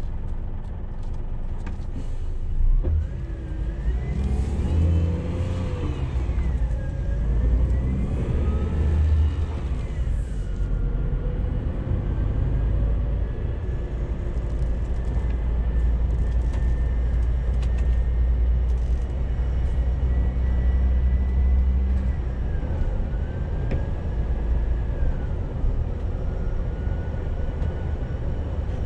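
Scania G410 CNG truck's 12.7-litre gas engine pulling. Its pitch rises and falls twice in the first ten seconds as it runs up through the automatic gearbox's shifts, then settles into a steady cruise. There is a thump about three seconds in.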